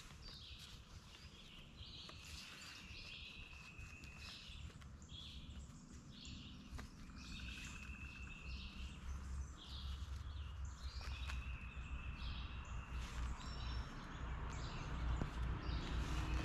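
Birds singing outdoors: one repeats a short chirped phrase that ends in a steady high whistle about every four seconds, with other chirps and trills in between. Underneath is a low rumble that grows louder near the end.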